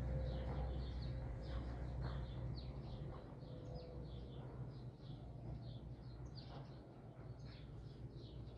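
Small birds chirping, many short quick calls throughout, over a low rumble that fades steadily.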